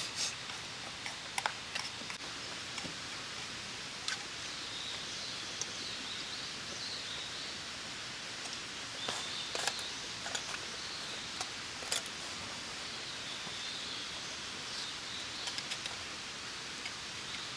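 Outdoor ambience: a steady hiss with scattered sharp clicks, and a faint high wavering call through the middle stretch.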